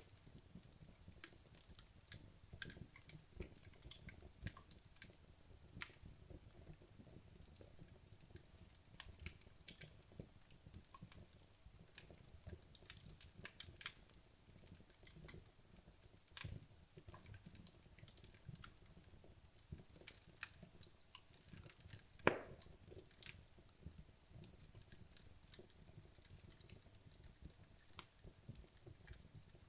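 Wood logs burning in a fireplace, crackling quietly with irregular small ticks and snaps, and one louder pop about two-thirds of the way through.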